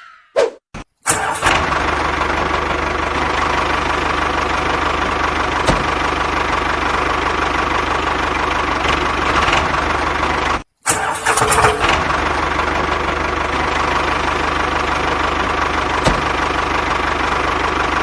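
Motor of a small DIY model tractor running steadily with a hum and a whine. It breaks off abruptly for a moment about halfway through, then picks up again with a few clicks.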